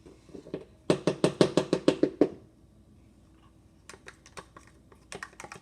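Spoon clacking against a bowl while stirring slime: a quick run of about a dozen taps, about seven a second, then a few scattered fainter taps.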